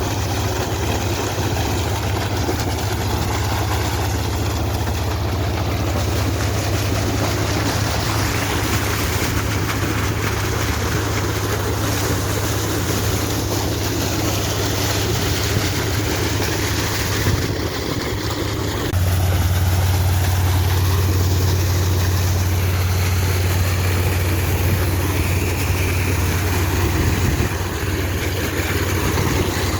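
Two-cylinder 22 HP Deutz diesel engine running steadily under load while driving a water pump, with a steady rushing noise over its low engine note. About two-thirds of the way through, the engine note shifts and gets louder.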